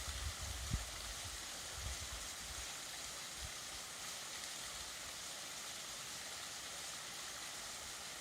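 Small waterfall splashing steadily, with a few low bumps in the first two seconds.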